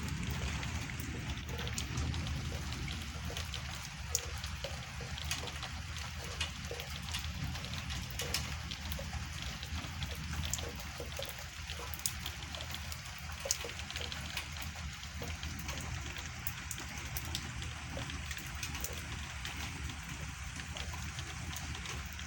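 Rain falling during a thunderstorm: a steady hiss with many scattered, sharp drip and splash ticks.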